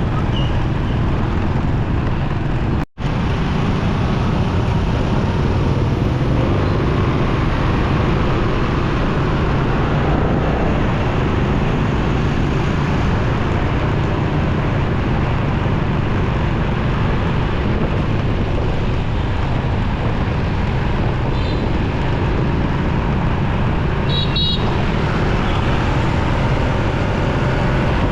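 Riding a motorcycle in heavy city traffic: steady engine, tyre and wind noise with surrounding traffic, and a short horn beep late on. The sound drops out for an instant near the start.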